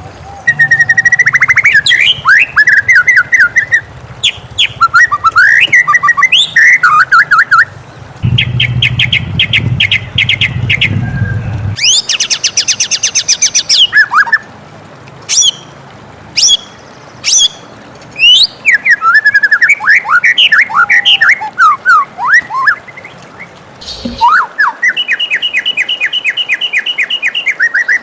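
White-rumped shama (murai batu) singing a loud, varied song of fast trills, rising and falling whistled notes and rapid chattering phrases, changing every second or two.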